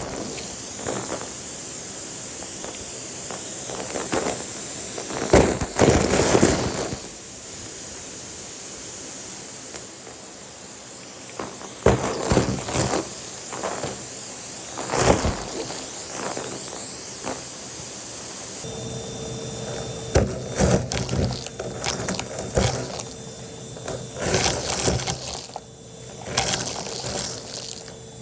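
Numatic tub vacuum cleaner running with a steady rush of air, with bits of debris crackling and rattling as they are sucked up through the hose and tube. About two-thirds of the way through the sound shifts and a steady hum comes in.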